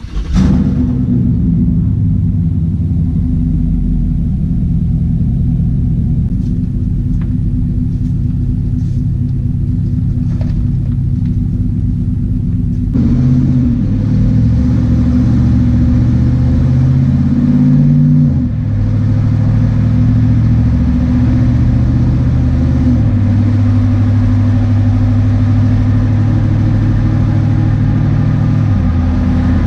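Exhaust of a 2017 Chevrolet Silverado 1500's 5.3-litre V8, muffler deleted and Y-piped into dual 5-inch tips, rumbling steadily. About a third of the way in it gets louder and brighter, and its pitch shifts up and down several times after that.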